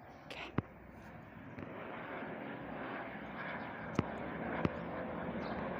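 Airbus H130 helicopter's single turboshaft engine and rotor running, the noise swelling over the first couple of seconds and then holding steady. A few sharp clicks stand out above it.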